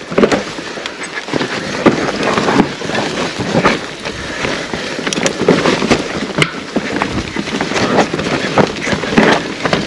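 Mountain bike riding down a forest trail: tyres rushing over dirt, with frequent knocks and rattles from the bike over bumps, and wind on the camera microphone.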